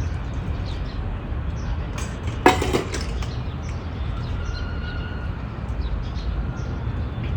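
Small birds chirping over a steady low rumble, with one short, louder sound about two and a half seconds in.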